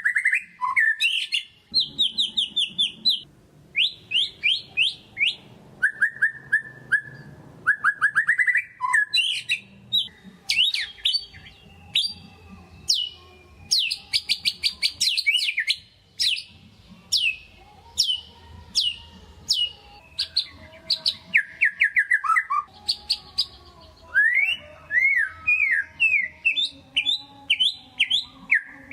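White-rumped shama singing continuously, in quick series of repeated sweeping notes that change from one phrase to the next every second or two.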